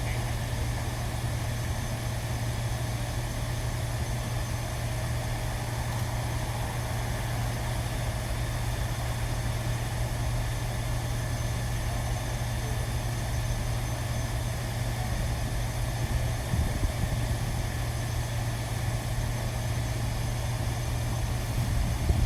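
Steady low hum of running machinery, with a few faint knocks about three-quarters of the way through.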